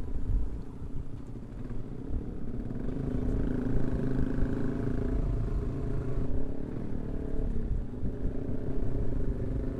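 Yamaha R15 V3 single-cylinder motorcycle engine running while riding, its pitch rising a little about three seconds in and dropping again around seven and a half seconds, over a rough low rumble of wind on the microphone.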